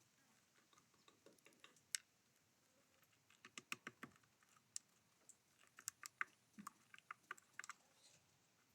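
Small birds pecking seeds on a feeder: irregular sharp taps and clicks, sparse at first and coming thick and fast from about three seconds in.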